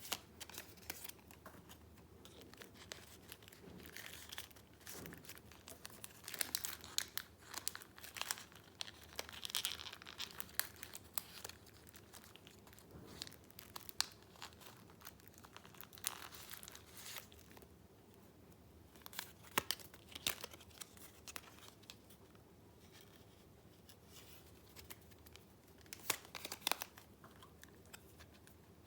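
Paper rustling and crinkling, with scattered sharp crackles and clicks, as the sheets and paper pieces of a handmade junk-journal share book are handled.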